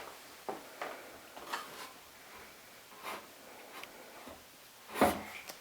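Soft rustling and short scuffing sounds of newborn golden retriever puppies wriggling and nursing on their bedding, with a louder scuff about five seconds in.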